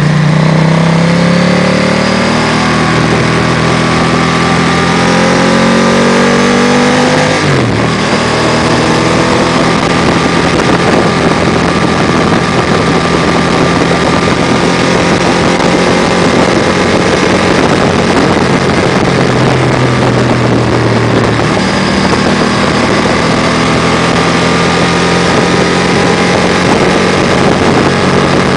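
Ducati motorcycle's V-twin engine heard from the rider's seat while riding, with wind rush on the microphone. The revs climb for the first several seconds, fall away sharply about seven seconds in, then the engine runs at fairly steady revs, changing pitch again a little after twenty seconds.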